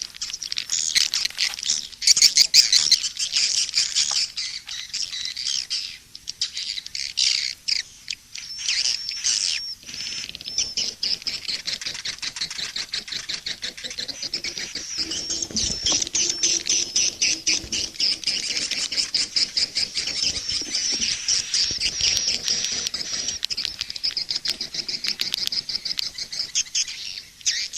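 Edible-nest swiftlets twittering and chirping in a dense, continuous chorus of rapid high trills: a swiftlet lure-call recording (suara panggil) played to draw swiftlets into a swiftlet house.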